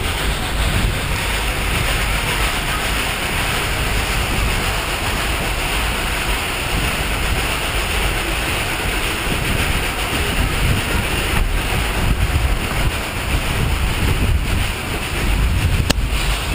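Narrow-gauge train in motion, a steady rumble and rushing noise with wind buffeting the microphone.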